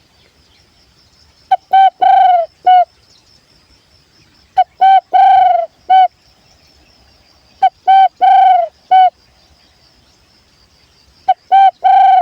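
A spotted-dove call whistle blown to lure doves, imitating the tekukur's coo. It sounds four times, about every three seconds, each phrase two short notes, a longer drawn-out note and a short closing note. The last phrase is still going at the end.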